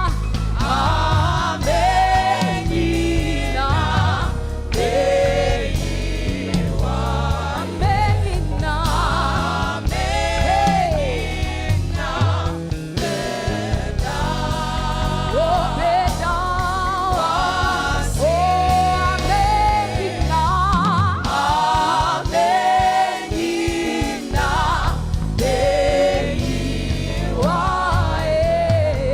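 Gospel choir singing over a band, with a steady beat and bass.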